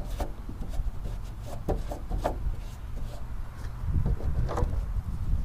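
A shop rag wiping and rubbing the inside of a tail-light housing opening, with a few short knocks and scrapes about two, two and a half, and four and a half seconds in.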